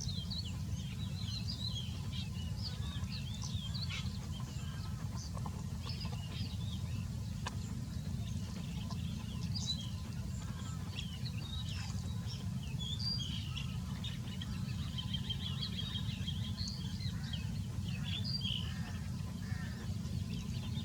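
Small birds chirping: many short, high chirps throughout, over a steady low rumble.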